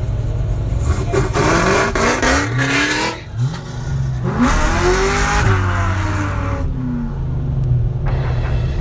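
Supercharged V8 engine revving: the pitch climbs twice, holds briefly, then falls back to a steady low rumble.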